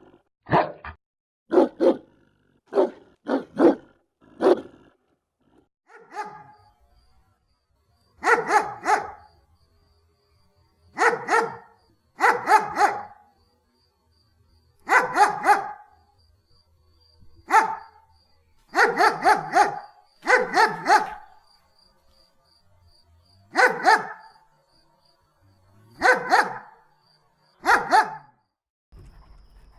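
German Shepherd dog barking. A quick run of single barks, about two a second, fills the first five seconds. After that the barks come in bursts of two or three, with pauses of one to two seconds between them.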